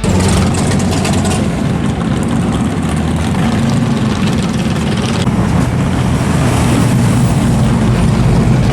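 Loud car engine running steadily at a low, even pitch.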